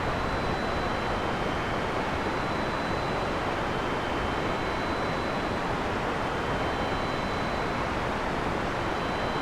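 Heavy rain falling in a steady, dense hiss, with no thunder. Faint high steady tones sit above the rain and fade in and out.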